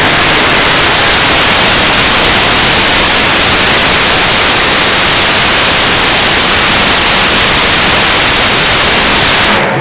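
Modified pulling truck's engine at full throttle during a pull, so loud that the microphone overloads into a harsh, distorted hiss. It drops off suddenly near the end.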